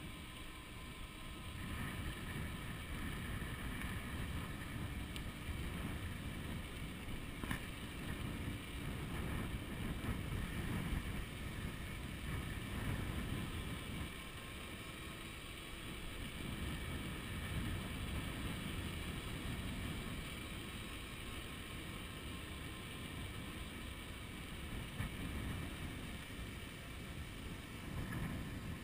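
Wind buffeting the microphone of a chest-mounted GoPro on a moving electric bicycle: an uneven low rumble that swells and eases with the gusts.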